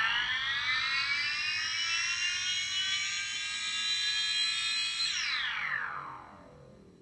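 Dave Smith Instruments Tempest analog drum machine's synth voice holding a high, buzzy multi-tone note at the top of an upward sweep. About five seconds in it glides steeply down in pitch and fades away.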